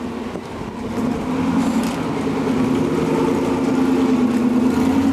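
Jeep engine revving up about a second in and held at steady high revs under load as it tries to climb a steep rock ledge.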